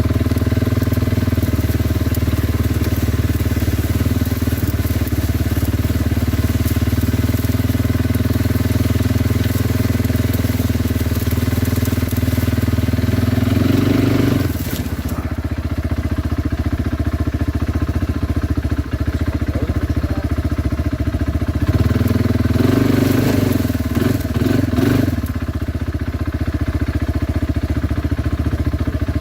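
Kawasaki Brute Force 300 ATV's single-cylinder engine running steadily while riding. It eases off a little about halfway through, with brief rougher, rattling patches then and again near the end.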